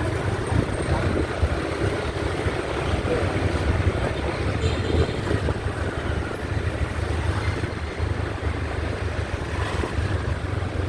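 A motorbike being ridden: steady engine and road noise with a heavy low rumble.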